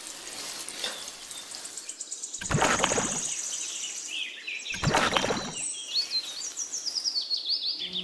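Birds chirping over a steady outdoor background, with two short, loud noisy sounds, each under a second, about two and a half and five seconds in.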